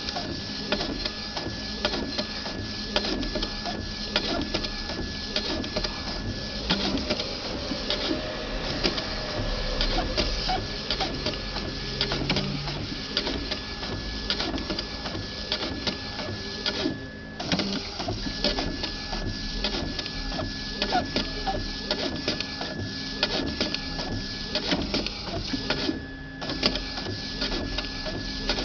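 Epson CX3700 inkjet printer printing a page normally: the print-head carriage shuttles across in passes of a few seconds, with a steady whine and dense clicking, and short pauses between passes as the paper steps on.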